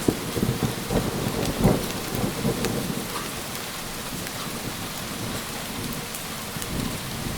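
Steady heavy rain with rolling thunder rumbling through the first few seconds, then fading to a low grumble under the rain.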